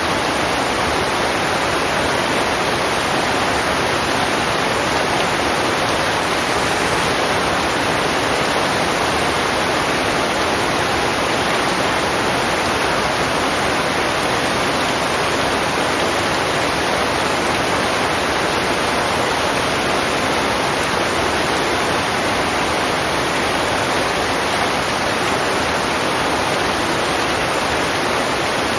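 Heavy rain falling, a loud, steady, unbroken hiss of downpour.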